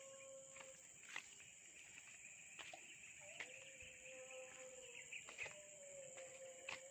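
Faint countryside ambience: a steady high insect drone with chirping, a low wavering call, and a few small clicks.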